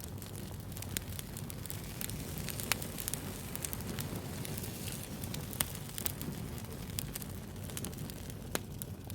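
Wood fire burning, a steady low rumble with irregular sharp crackles and pops, a few louder snaps standing out.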